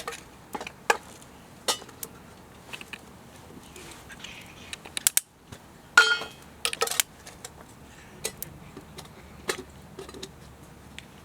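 Wood fire crackling, with irregular sharp pops and snaps. The loudest burst of pops is about six seconds in.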